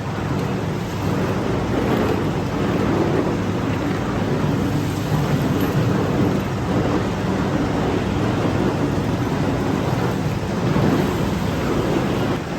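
Steady, dense rumbling noise of factory machinery, without distinct strikes or rhythm.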